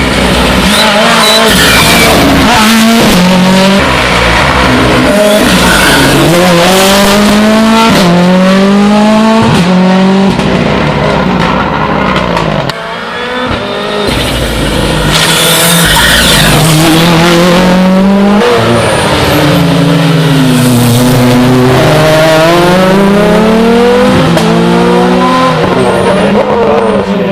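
Rally car engines revving hard and climbing through the gears, the pitch repeatedly rising and dropping at each shift, with some tyre squeal. The sound dips briefly about halfway through before another run builds up.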